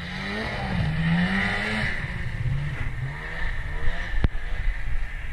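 A small vehicle engine revving up and down, getting louder early on, with a single sharp click about four seconds in.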